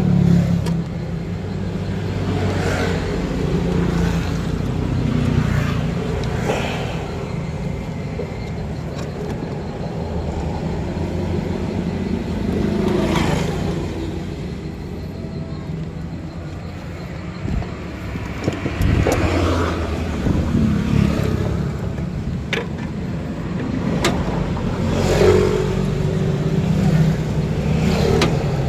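Car engine running steadily, with the revs rising and falling every few seconds.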